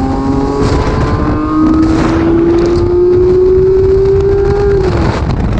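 Sports car engine accelerating hard through a gear, its note rising steadily in pitch, then dropping a little before the end as the throttle lifts.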